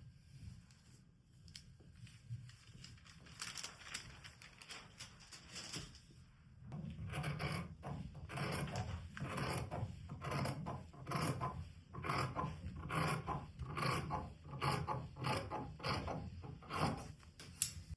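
Rustling and scraping of fabric being worked by hand: faint at first, then from about seven seconds in a regular run of short strokes, about two a second.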